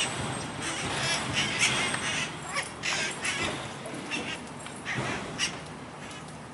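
Wild parrots squawking in the trees: a rapid string of short, scratchy calls, several birds overlapping.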